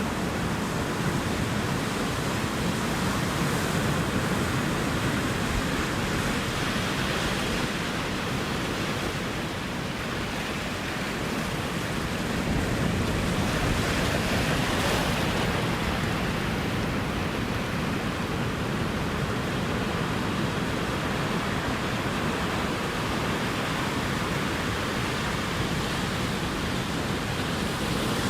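Ocean surf washing onto the shore in a continuous rush, swelling and easing slowly as waves come in, with one stronger swell about halfway through.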